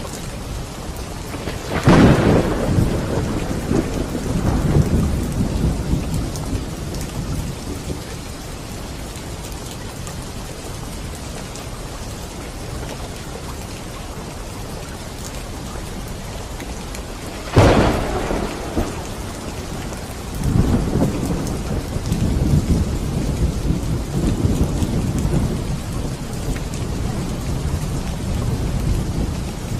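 Steady rain with thunder: two sharp thunderclaps, one about two seconds in and one a little past halfway, each followed by low rolling rumble, the second rumble swelling again and running on for several seconds.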